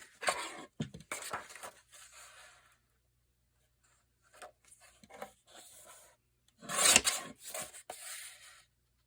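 Cardstock being handled and cut to size: a series of dry paper rubbing and scraping strokes, with a short pause after about three seconds and the loudest stroke about seven seconds in.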